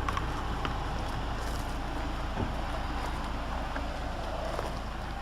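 Steady low rumble of a 2007 Hummer H3 running, with a few faint clicks.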